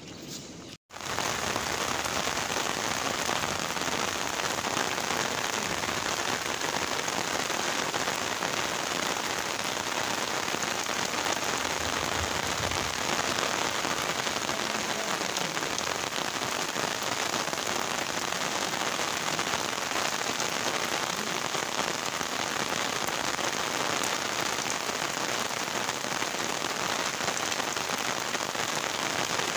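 Heavy rain falling steadily, a dense even hiss. It cuts out for a moment about a second in, then runs on unchanged.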